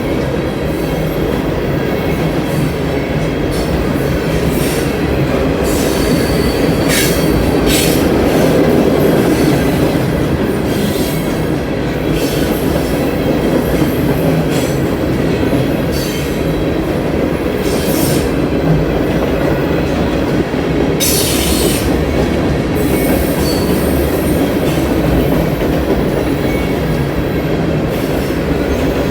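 Freight cars of a Union Pacific mixed freight train rolling past, a steady loud rumble of steel wheels on rail. Brief high-pitched wheel squeals cut through several times, the longest lasting about a second, about two-thirds of the way through.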